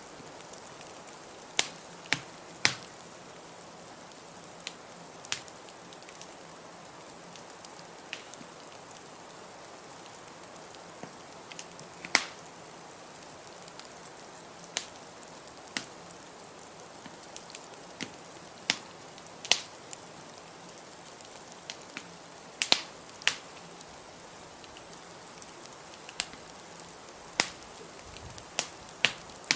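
Wood fire crackling in a fireplace: irregular sharp pops and snaps, a few much louder than the rest, over a steady soft hiss.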